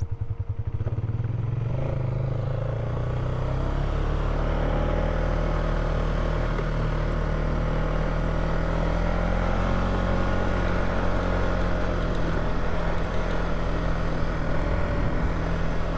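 Polaris Sportsman 570 ATV's single-cylinder engine running steadily while riding along a dirt trail, the engine note climbing slightly about two seconds in and then holding.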